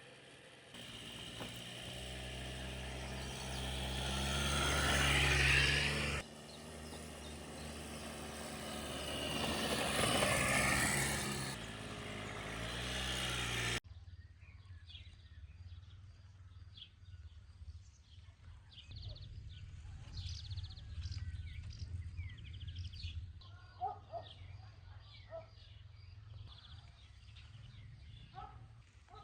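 A vehicle engine pulling away and accelerating, its pitch climbing twice with a sudden drop in between like a gear change. After an abrupt cut, quieter outdoor ambience with a low hum, scattered small ticks and a few short bird notes.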